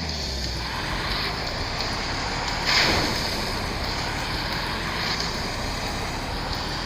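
Truck engine running under a steady rushing noise, with a louder burst of noise about three seconds in.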